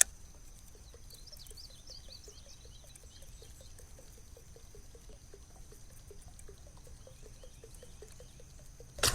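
A topwater bird lure being worked back across a lake, a faint regular ticking and splashing about three or four times a second. Right at the end comes a sudden loud splash as a bass strikes the lure and leaps from the water.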